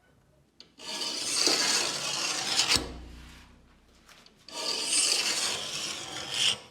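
Two long abrasive rubbing strokes, like a file or sandpaper worked by hand: the first starts about a second in and fades away, the second starts about halfway through and runs on.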